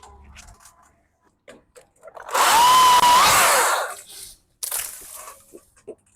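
Battery-powered Stihl MSA 220 TC top-handle chainsaw running briefly for about a second and a half, its electric motor whine rising in pitch as it spins up, then holding.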